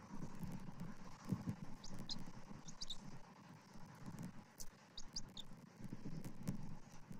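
Short, high bird chirps in quick little clusters, about two and three seconds in and again around five seconds, over low rustling with a few soft bumps.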